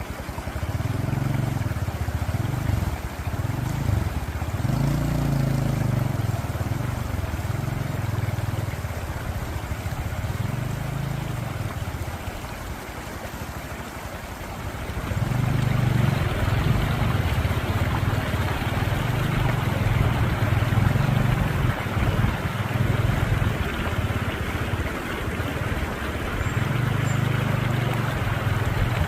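Motorcycle engine running, its revs rising and falling, over the rushing of river water; the water noise grows louder about halfway through.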